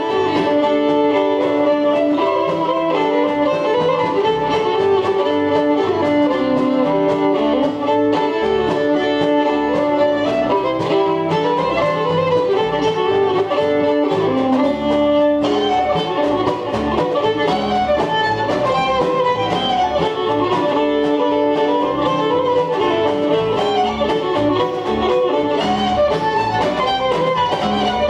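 Acoustic string band playing an instrumental break with no singing, a fiddle carrying the melody over guitar.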